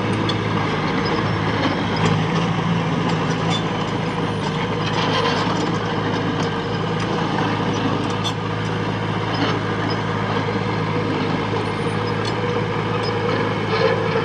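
Diesel engine of earthmoving machinery running steadily, its pitch shifting slightly about two seconds in, with scattered clicks and knocks over it.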